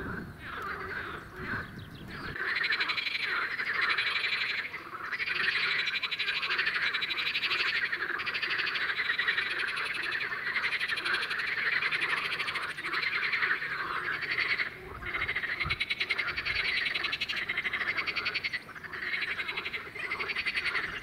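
A chorus of many male water frogs (common water frogs and pool frogs) croaking together in a dense, rapid rattle that swells about two seconds in and keeps going with a few brief dips. These are the males' spring mating calls to attract females.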